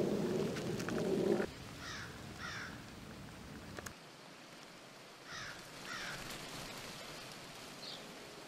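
A bird giving short falling calls in pairs, twice, about three seconds apart. Before that, for the first second and a half, there is a loud low rushing noise that stops abruptly.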